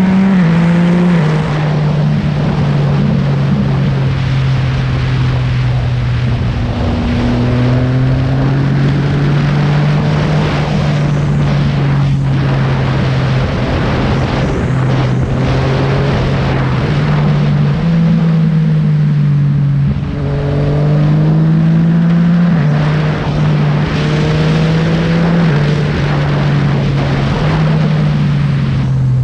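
Yamaha MT-09's inline-three engine through an M4 aftermarket exhaust, running steadily under way. Its pitch shifts up and down in small steps several times, over a constant rush of wind and road noise.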